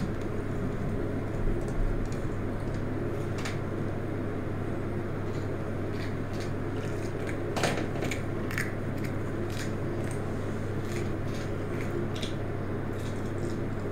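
Eating sounds of a person chewing skewered telur gulung (rolled fried egg), with scattered soft clicks and mouth sounds, over a steady low electrical hum.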